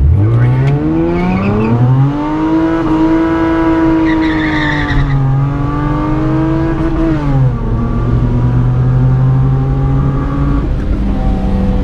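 Straight-piped Honda V6 with custom stainless headers launching hard from a brake stand in first gear: the exhaust note jumps in and climbs steeply, holds high with a burst of tire squeal, dips briefly at the shift into second, then drops to a lower steady drone about seven seconds in.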